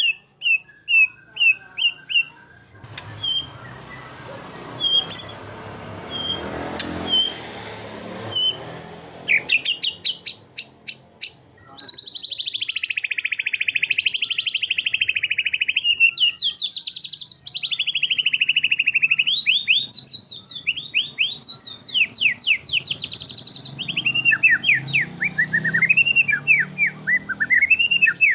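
White-rumped shama singing. A run of short repeated notes comes first, and rising whistled sweeps follow. Then a long, unbroken stretch of fast trills and warbling phrases takes over about twelve seconds in.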